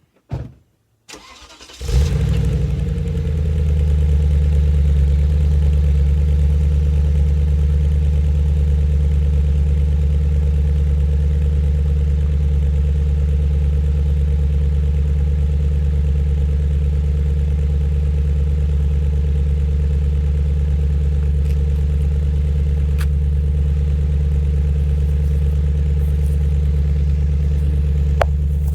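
Audi RS6 engine cold-started: a brief knock, then a short crank, and the engine catches about two seconds in with a loud flare. It then settles into a steady, loud cold idle.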